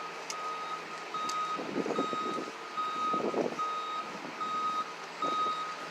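A vehicle's reversing alarm beeping steadily: one tone repeated evenly about one and a half times a second, over street noise.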